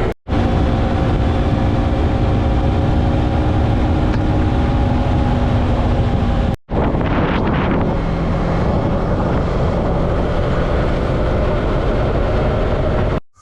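Yamaha MT-03 motorcycle engine running at a steady cruising speed under heavy wind rush on the GoPro microphone. The sound is broken by two sudden, brief gaps, about a quarter second in and about halfway through.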